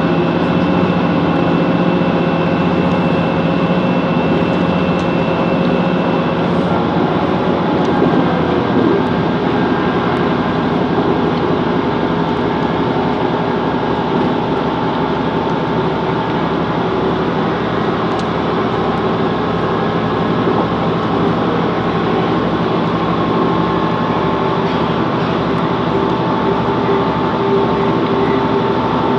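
Class 165 Networker Turbo diesel multiple unit running between stations: a steady drone of engine and running noise with several held tones, whose pitch drops slightly about eight seconds in.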